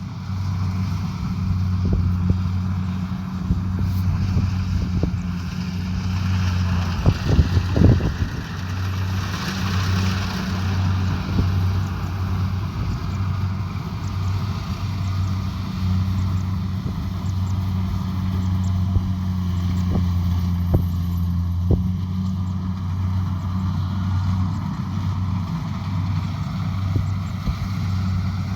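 Kubota DC70 Pro combine harvester running steadily with a low engine drone, and a few sharp knocks about seven to eight seconds in.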